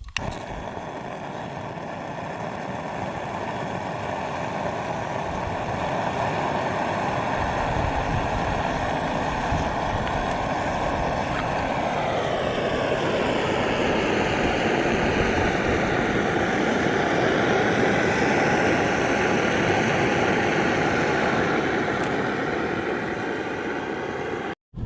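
McDonald PB two-stroke diesel engine running steadily. Its pitch drops around the middle as the speed falls, then partly recovers.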